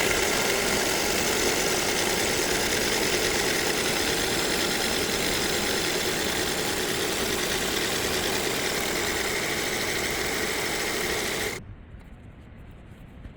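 Toyota Camry engine idling with a steady whine from its noisy alternator, the fault that an alternator replacement is meant to cure. The sound stops abruptly near the end.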